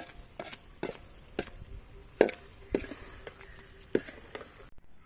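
Spoon knocking and scraping against a pan of thick simmering chicken curry as it is stirred: several sharp knocks, roughly every half second, that stop abruptly near the end.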